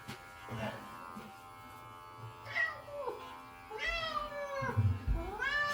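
Domestic cat meowing three times during clipping: a short meow about halfway, then a long falling meow and a long rising-and-falling meow near the end, in protest at being held and clipped.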